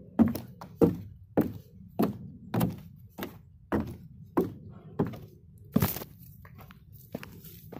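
Six-inch (16 cm) high heels walking, each step a sharp knock with a woody tone, about one every 0.6 seconds. The steady steps stop just before six seconds in on a heavier knock, and only a few faint taps follow.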